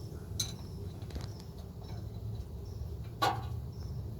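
Objects being handled: a light click about half a second in and one sharper knock or clatter about three seconds in, over a steady low hum.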